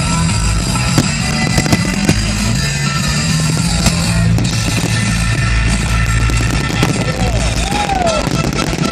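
Fireworks bursting with sharp bangs over loud music with a steady bass line.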